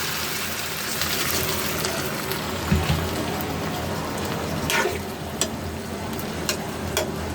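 Okra, potato and spice mixture sizzling steadily in a pan on the stove, with a few short clicks of a spoon or spatula against the pan from about three seconds in.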